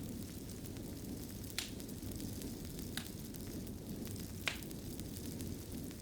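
Wood fire burning in a fireplace: a steady low rush of flames with light crackling and three sharp pops, the last one, about four and a half seconds in, the loudest.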